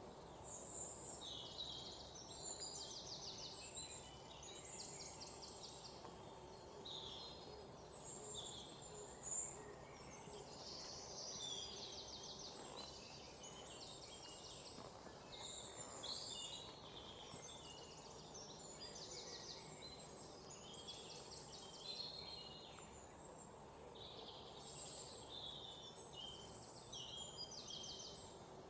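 Several songbirds chirping and calling, faint, with short rapid trills recurring every few seconds, over a steady low background noise.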